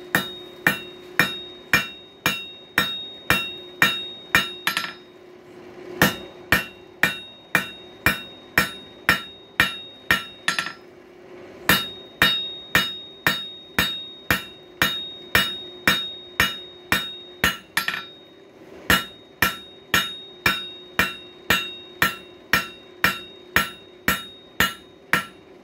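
Hand hammer forging hot coil-spring steel on an anvil, drawing it out and squaring it up: steady rhythmic blows about two to three a second, each with a bright ringing tone. The runs of blows break off in short pauses about five, eleven and eighteen seconds in. A steady low hum runs underneath.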